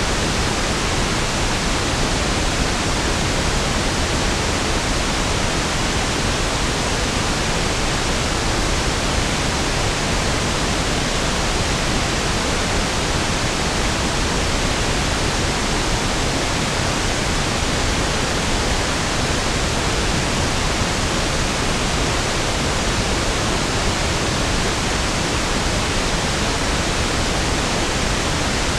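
Steady pink noise (1/f noise): an even, unchanging hiss with equal energy per octave, fuller in the lows than white noise.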